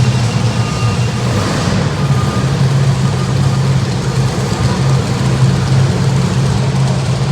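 Monster truck engine running at a steady idle: a loud, unbroken low drone under a wash of noise.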